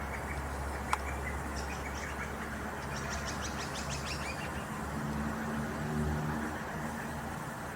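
A bird chirping: a quick run of short, high chirps a few seconds in, over a steady low rumble, with a single sharp click about a second in.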